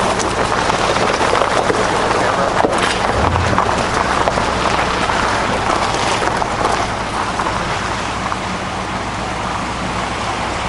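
Car driving: steady road and wind noise with a low engine hum underneath, heard from inside the car.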